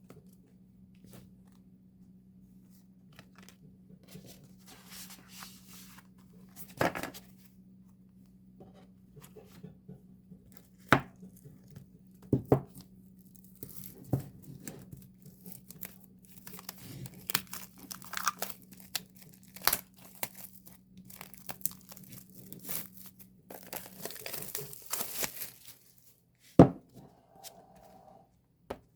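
Hands tearing and crinkling the plastic wrap and paper packaging of a K-pop album as it is opened, with a sharp click or clack every few seconds. A low steady hum underneath stops about four-fifths of the way through.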